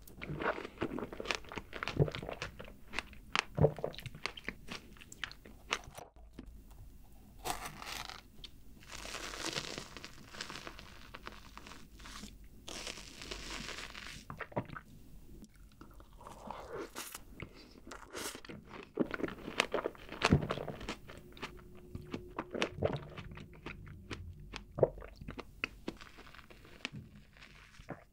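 Close-miked chewing of a fresh strawberry with whipped cream: wet, crunchy bites and mouth sounds. In the middle comes a stretch of soft, hissy scraping as whipped cream is scooped from the bowl, then more chewing.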